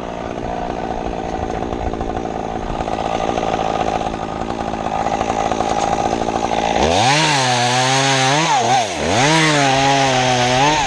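Two-stroke chainsaw engine running steadily in the background, then about seven seconds in a saw revs up loudly close by. Its pitch dips sharply twice and climbs back to full revs.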